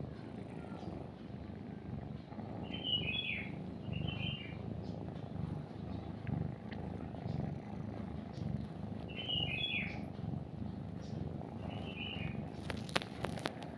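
A cat purring steadily in a continuous low pulsing rumble, while a small bird chirps four times in short clusters of falling notes. A brief crackle of clicks comes near the end.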